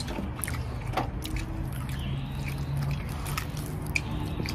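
A man chewing a mouthful of grilled pork rib meat close to the microphone, with a few short wet mouth clicks.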